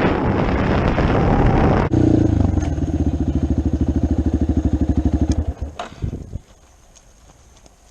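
Dirt bike engine running with heavy wind noise on the mic, then, after an abrupt change about two seconds in, idling with an even putting beat before it shuts off and dies away about six seconds in.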